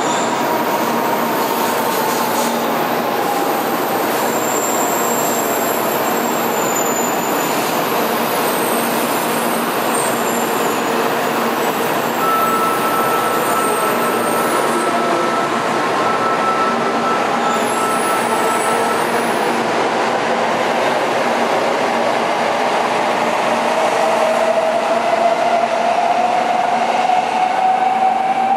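N700-series Kyushu Shinkansen train moving slowly along the station platform, with wheel and rail noise under its motor whine. The whine drops in pitch over the first few seconds and climbs again over the last few.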